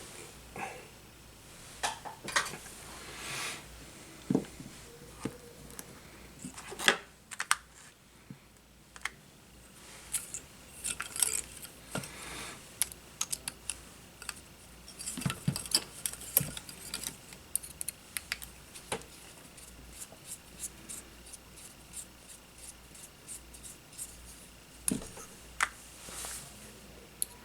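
Small hand tools and parts being handled on a workbench during a drone frame repair: scattered sharp clicks, taps and light scrapes, busiest in the middle stretch.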